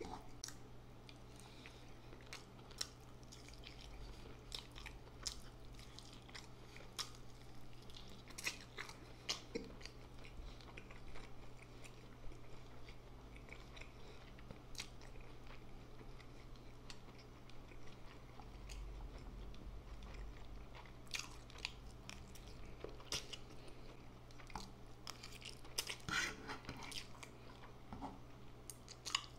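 Close-miked chewing of instant noodles with scattered sharp wet mouth clicks and smacks, over a steady low electrical hum.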